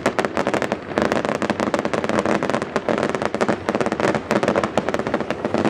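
Fireworks going off in a dense, rapid barrage of sharp cracks and bangs with no pause.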